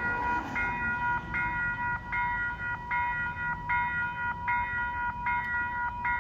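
Railroad grade-crossing warning bell ringing in an even repeating pattern, a bit more than once a second, over the low rumble of a train at the crossing.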